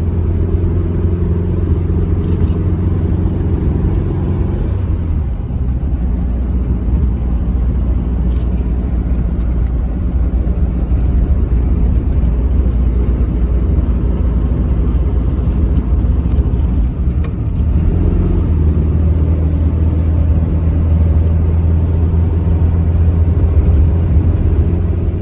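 An engine running steadily at an even speed, with a low, even hum.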